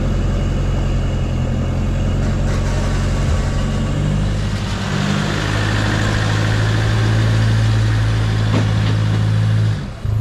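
A four-wheel-drive ute's engine idling steadily just after being started. Its note shifts about four seconds in, then runs evenly until it stops abruptly near the end.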